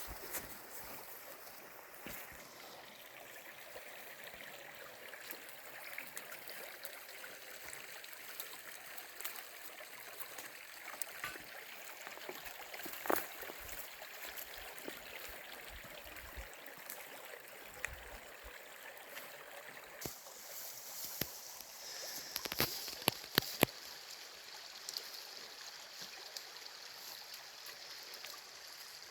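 A river flowing, a steady rush of water, with scattered sharp clicks and knocks, several close together about three-quarters of the way in.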